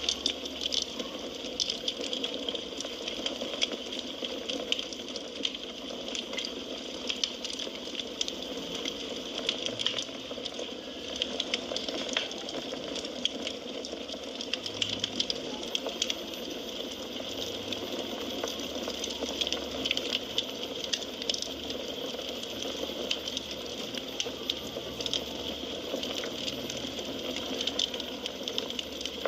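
Firewood burning in a fireplace, crackling: many small, irregular pops and snaps over a steady hiss.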